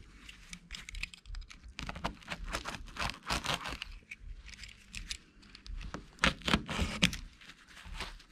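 Marine carpet being cut and handled at the corner of a hatch lid: a run of irregular scratchy clicks and rasps, with a louder burst of rustling a little past the middle.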